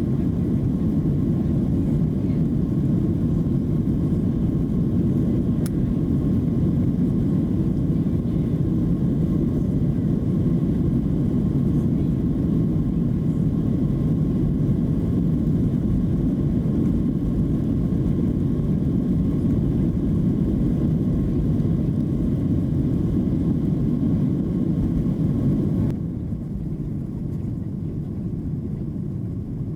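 Steady drone of a Boeing 737-700's CFM56-7B jet engines and airflow heard inside the passenger cabin, with a faint steady whine above it. Near the end it drops suddenly to a quieter level.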